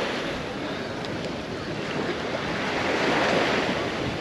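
Small sea waves breaking and washing up the shore, the surge fading and building again about three seconds in.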